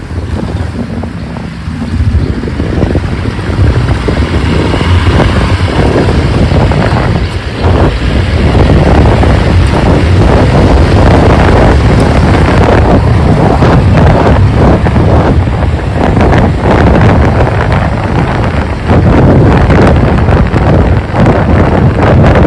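Wind buffeting the microphone on a moving motorcycle, a heavy, loud rumble with road and engine noise beneath it. It is a little quieter for the first couple of seconds, then grows louder.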